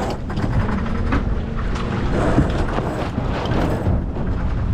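Wind buffeting the microphone aboard a small racing sailboat, a heavy steady rumble, with scattered knocks and rustling from the boat's gear.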